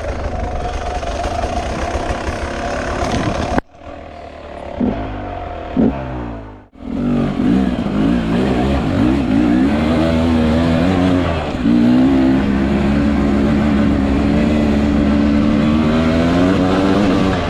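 Two-stroke enduro motorcycle engine revving, its pitch rising and falling as the bike is ridden. A few seconds in the sound drops away suddenly for about three seconds, apart from two short blips, then comes back with the engine pulling hard again.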